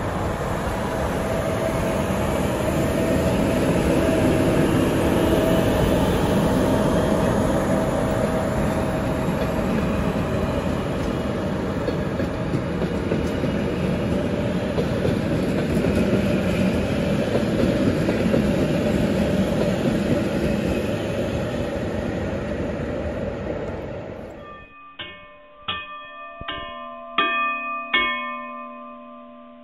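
A train running, a steady noisy rumble of rail noise that cuts off abruptly about 24 seconds in. It is followed by a short chime jingle of about five bright, ringing strikes.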